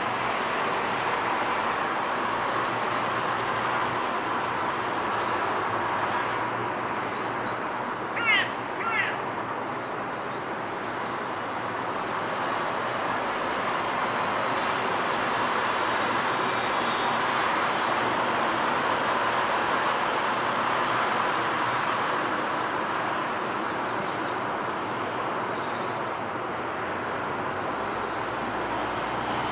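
A bird gives two short, loud calls about eight seconds in, over a steady, even outdoor hum, with faint, high chirps from small birds now and then.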